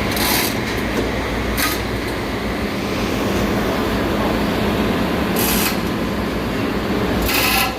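Ship's engine-room machinery running with a loud, steady drone, broken by several short hissing bursts.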